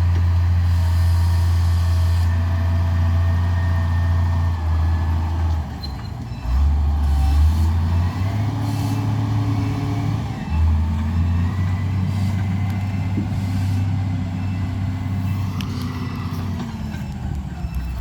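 Heavy diesel vehicle engine running loud and close, its low drone shifting pitch a couple of times as it works.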